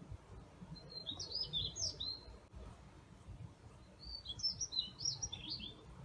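A songbird singing two short phrases of quick, warbling, gliding whistled notes, about three seconds apart.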